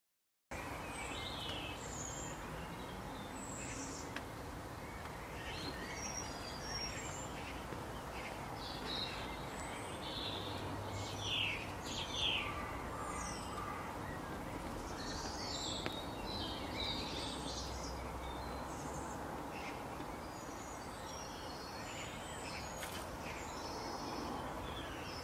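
Many birds chirping and calling over a steady background hiss, with a couple of louder calls about eleven and twelve seconds in.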